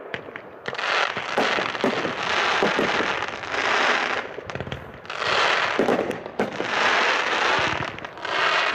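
Consumer fireworks cake (Winda's Sunshine State) firing shot after shot: sharp pops, with a swell of hissing noise about a second long every second or so.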